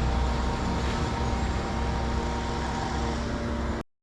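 Steady engine drone from the machinery of workmen cutting down trees, with a heavy low rumble and a steady hum; it cuts off suddenly near the end.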